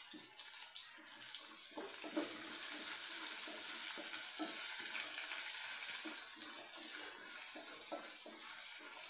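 Chopped onions and chana dal sizzling in hot oil in a steel kadai as they sauté towards golden, with a wooden spatula scraping and knocking against the pan as it stirs.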